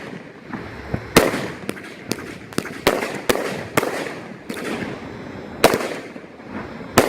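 500-gram fireworks cake firing its gold glitter shots: about six sharp bangs, with smaller pops and a crackling hiss between them.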